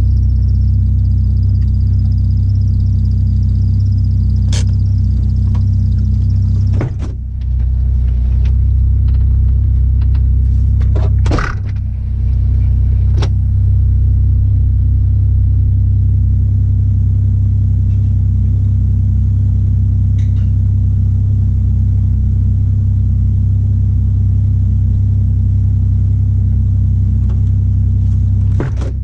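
Turbocharged Toyota 1JZ VVT-i straight-six running under way as the car is driven: a loud, steady, deep drone. The level dips briefly twice, about seven and about eleven seconds in.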